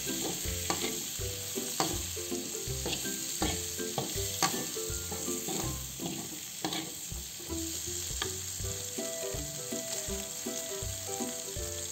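Chopped chillies and tomatoes sizzling in oil in an aluminium wok, stirred with a metal spatula that scrapes and taps against the pan now and then.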